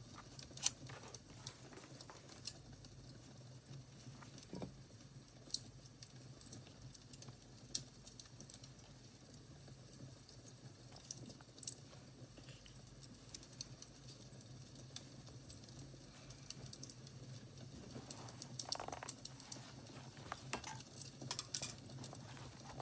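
Crackling wood fire: sparse sharp pops and clicks over a low steady hum, with a denser run of knocks and rustles near the end.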